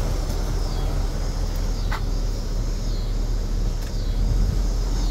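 The 1972 Lincoln Continental Mark IV's big V8 idling steadily, a low even rumble, with a couple of faint clicks about two and four seconds in.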